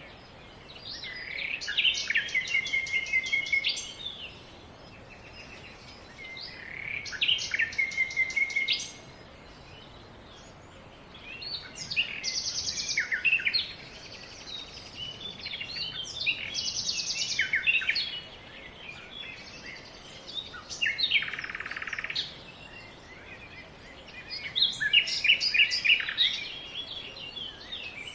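Songbirds singing in repeated phrases of two or three seconds, each made of quick varied notes and trills, with short pauses between phrases.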